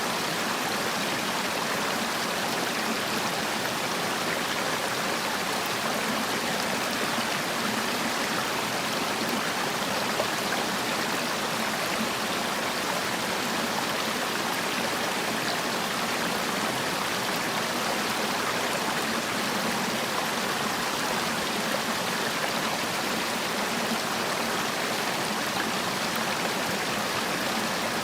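Mountain valley stream running steadily, an even rushing and splashing of water over rocks.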